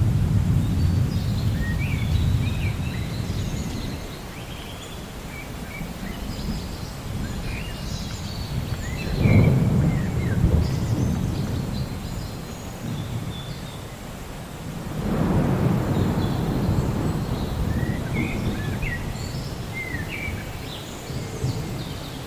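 Rain falling steadily through a thunderstorm, with rolls of thunder: one rumble dies away early on, a sharper crack and rumble comes about nine seconds in, and another swells up after about fifteen seconds and fades slowly. Birds chirp now and then throughout.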